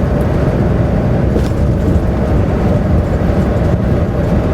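Steady engine and road rumble heard from inside a semi truck's cab as it drives along.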